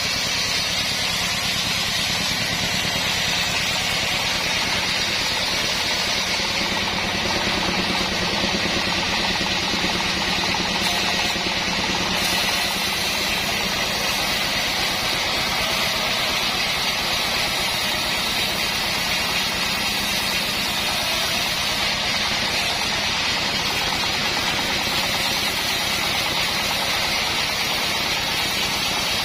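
Engine-driven band sawmill running steadily: the engine's fast, even beat under a constant high hiss of the band blade and wood.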